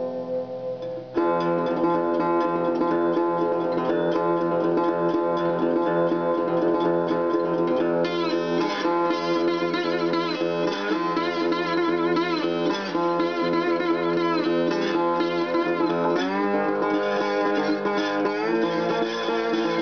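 Instrumental guitar music: plucked acoustic guitar, with a melody line that bends and wavers in pitch coming in about eight seconds in.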